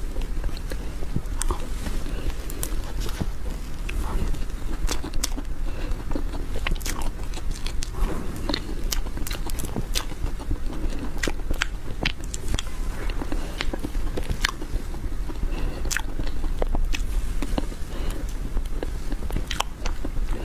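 Close-miked eating of a whipped-cream sponge cake: soft, wet chewing and lip smacking, with many sharp mouth clicks at irregular intervals.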